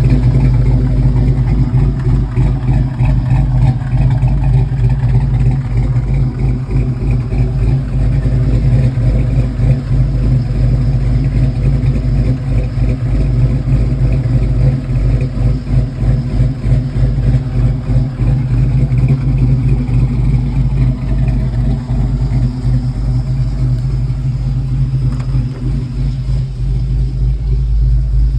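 GM LS V8 with a Brian Tooley Racing Truck Norris camshaft idling with a choppy, uneven lope, the lumpy idle of this performance cam.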